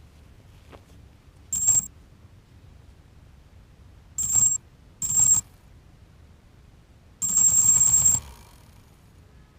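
Self-built QAV250 racing quadcopter's electric motors whining in four sudden throttle bursts, the last about a second long, at one steady high pitch, with near quiet between them.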